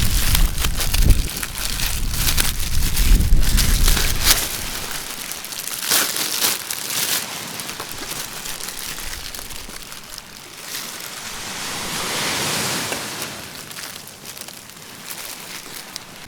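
Surf washing onto a beach, with one wave swelling and falling away about ten to thirteen seconds in. Wind buffets the microphone for the first four seconds or so, and a few short crackles come through in the first seven seconds.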